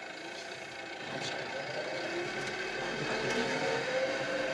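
Kioti RX7320 tractor's diesel engine running, growing louder from about a second in and rising a little in pitch.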